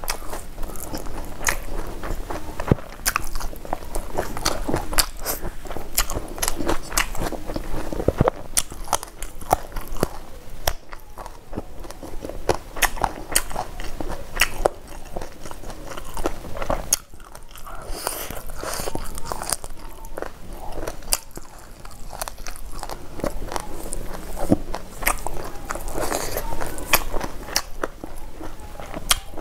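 Close-miked chewing of a mouthful of food, with crunching and many sharp crackly clicks throughout.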